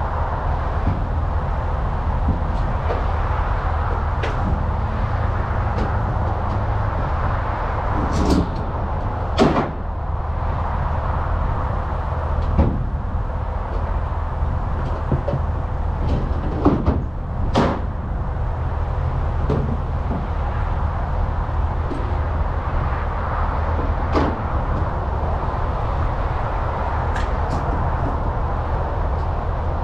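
A semi-truck's diesel engine running with a steady low hum, with scattered sharp knocks and clunks, the loudest a few seconds apart in the middle.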